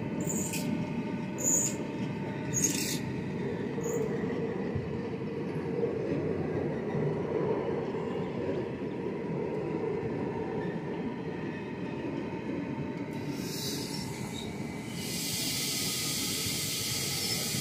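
Passenger train coaches rolling past on steel rails, a steady rumble of wheels on the track. There are four short, sharp high-pitched squeaks in the first four seconds, and a steady hiss comes in near the end.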